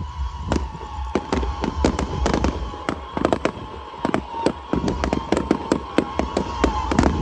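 Fireworks going off as a rapid, irregular string of sharp bangs that come thicker toward the end, over a steady high tone.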